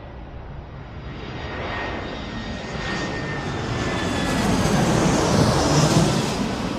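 An airplane passing overhead: a rush of engine noise that builds to its loudest about five to six seconds in and then begins to fade, with faint whistling tones that slide slightly down in pitch.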